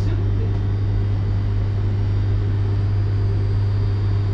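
Passenger train running, heard as a steady low hum with a faint rumble.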